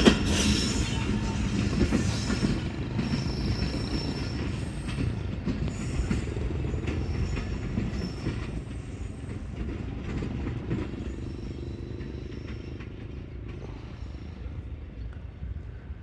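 Passenger train running past on the track, its wheels clattering with short high-pitched wheel squeals, the sound fading steadily as it moves away.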